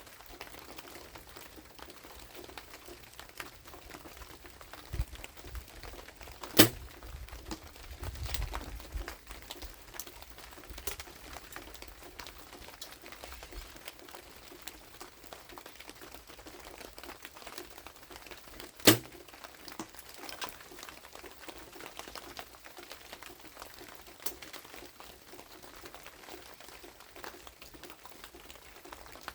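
Light rain pattering steadily, with two sharp snaps about twelve seconds apart from a compound bow being shot.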